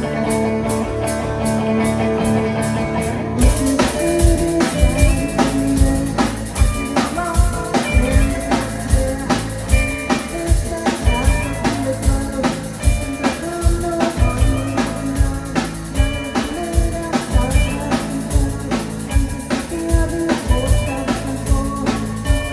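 Live band playing an instrumental passage: guitar over a light, steady ticking, then the full drum kit with bass drum comes in about three and a half seconds in and keeps a steady beat.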